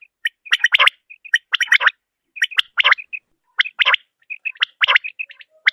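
Female common quail (Coturnix coturnix) calling: a short, harsh call repeated about once a second, with quieter little chirps between the calls.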